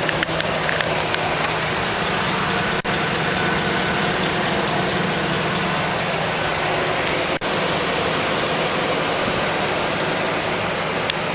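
A 2008 Hummer H2's 6.2-litre V8 idling steadily, with two very short dropouts in the sound.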